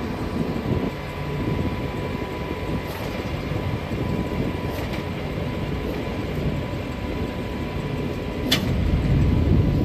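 Idling vehicle engines: a steady low rumble with a faint constant high tone over it, and a single sharp click near the end.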